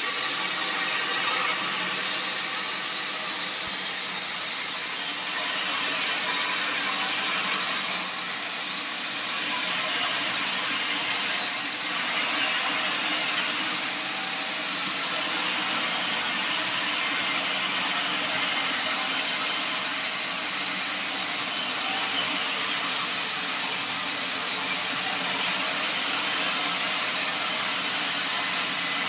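Sawmill saw cutting a mahogany log into planks: a steady, even high-pitched rushing noise.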